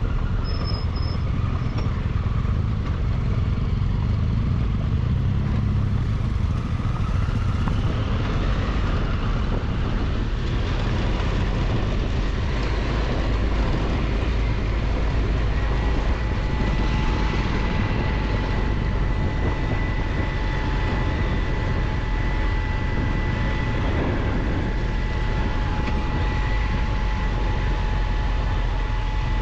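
Adventure motorcycle riding a dirt road: the engine runs steadily under heavy wind and road rumble on the camera microphone. About halfway through, a steady thin whistle-like tone joins and holds.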